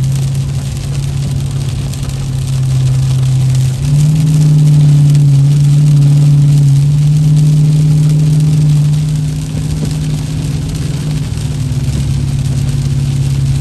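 Car engine and road noise heard from inside the cabin while driving, a steady hum that eases off, picks back up about four seconds in, and eases again about two-thirds of the way through.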